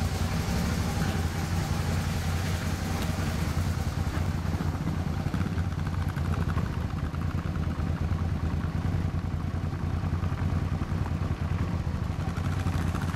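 Motorcycle engines idling steadily: the rider's own Suzuki V-Strom and a second motorcycle running just ahead.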